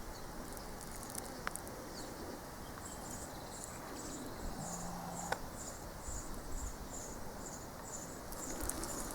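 An insect chirping, a short high-pitched chirp repeated evenly about twice a second, starting about three seconds in over a steady outdoor hiss.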